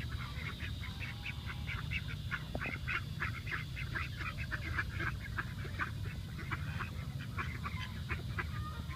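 A flock of ducks and geese calling together, a dense run of short, rapid, overlapping calls, over a steady low rumble.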